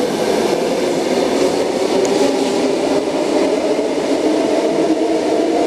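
Sydney Trains Tangara electric train pulling out of the platform, its running noise steady and loud as the cars go by.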